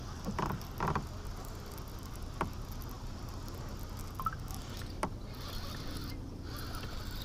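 Scattered light clicks and knocks of fishing gear being handled on a kayak, over a low steady hum.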